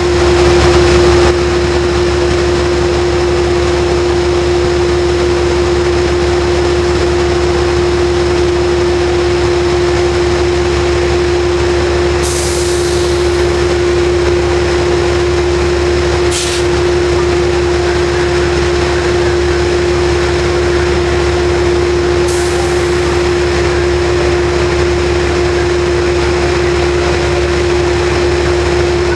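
Metro-North P32AC-DM diesel locomotive idling with a loud, steady drone and one constant tone, while an M8 electric train rolls along the next track. Three short bursts of air hiss come in the middle.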